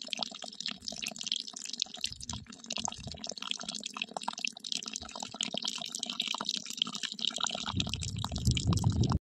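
A thin stream of water poured from a small steel pot, trickling and splashing onto sand, getting louder and fuller near the end.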